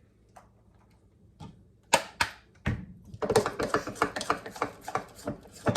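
A few knocks, then a utensil clicking rapidly against a bowl while stirring pancake batter, several clicks a second from about three seconds in.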